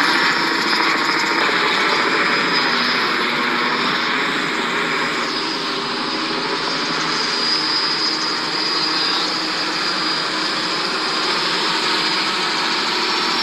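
Police helicopter overhead, a steady drone of rotor and engine noise with a held whine.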